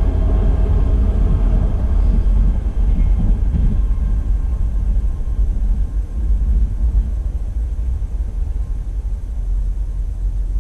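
Rumble of a train that has just passed, dying away over the first four seconds or so as it recedes, leaving a steady deep rumble.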